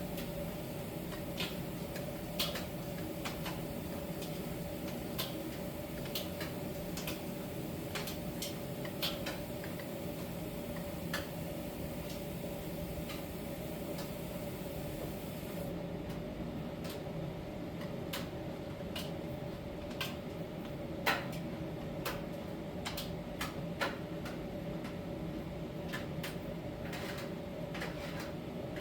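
Miele T1 heat-pump tumble dryer running in its drying stage: a steady hum with a held mid-pitched tone, broken by irregular light clicks and taps, about one every second or two, from the tumbling load.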